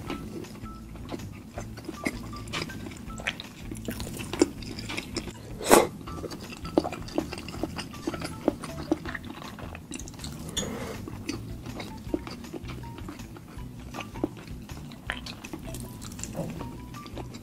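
Close-up eating sounds: chewing and pulling apart cooked chicken, with many small clicks and clatters from the plate. Soft background music with short light notes plays under it, and there is one loud sharp click about six seconds in.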